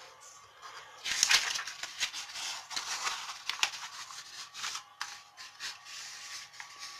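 A sheet of A4 paper rustling as it is handled and folded corner to edge to form a square, starting about a second in and dying down after about five seconds.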